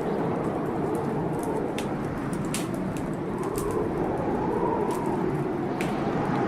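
Wood fire crackling in a fireplace, with a handful of sharp pops scattered through, over the steady rush of a storm whose wind rises and falls in a faint howl.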